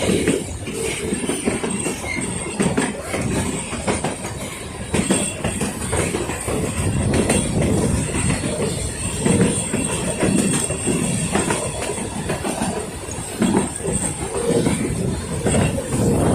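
Puffing Billy narrow-gauge steam train running, with a steady, uneven rattle and rumble of the carriages and wheels on the track and a faint, constant high squeal.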